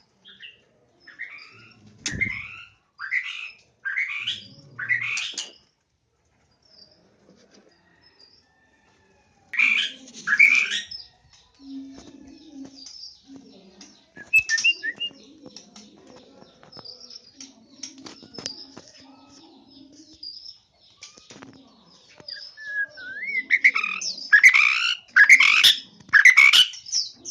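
White-rumped shamas calling: short rising notes in series, about one a second, with a pair near the middle and a louder run of four or five near the end.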